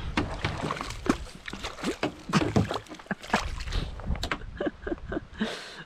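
Irregular knocks and clicks on a kayak, with water sloshing and splashing, while a hooked fish is fought at the boat side.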